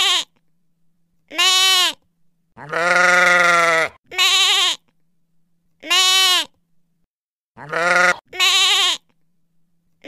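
Goats bleating: a series of about six separate wavering calls, each under a second long. One call, about three seconds in, is longer and deeper than the rest.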